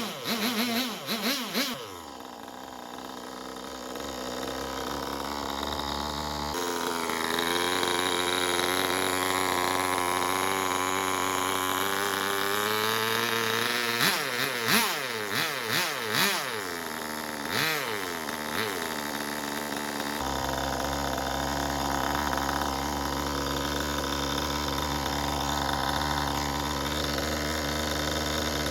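Small 2.5 cc two-stroke nitro glow engine running, with a steady buzz, its pitch sweeping up and down a few times around the middle as the throttle is blipped. The sound shifts abruptly twice along the way.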